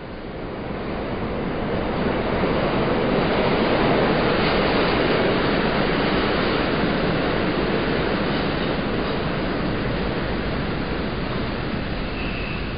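Train passing by: its rumble swells over the first few seconds, then slowly fades. A faint thin high tone comes in near the end.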